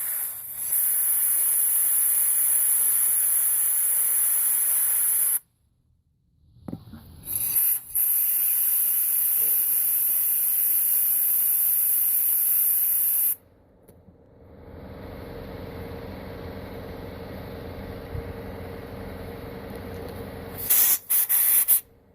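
Air blower hissing as it blows water out of a freshly washed EVAP charcoal canister, in long blasts that cut off abruptly, with a gap of silence between. A quieter steady hum follows, then two short blasts near the end.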